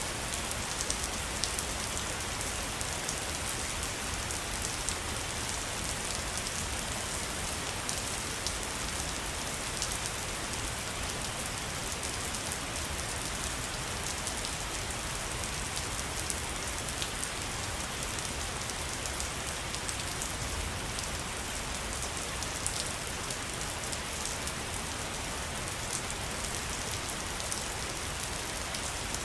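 Waterfall: a steady rush of falling water with a constant patter of splashing drops.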